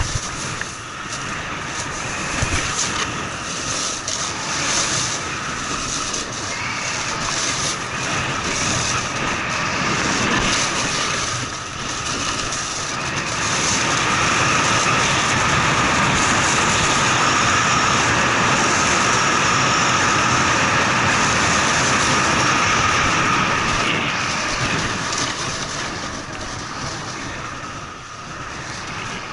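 Snowboard sliding and scraping over snow in a continuous rushing noise. It grows louder about halfway through and eases off near the end.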